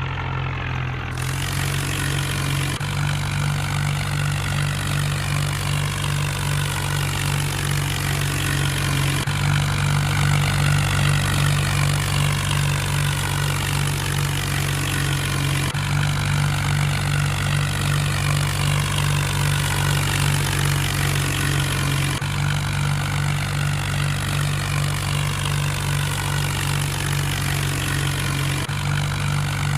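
Mahindra tractor's diesel engine running steadily, with a fainter whirring sound above its low drone.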